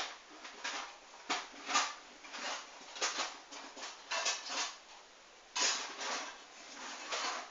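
Hoover washing machine tumbling a sudsy load of wet towels, the water sloshing in the drum in a string of irregular splashes about twice a second.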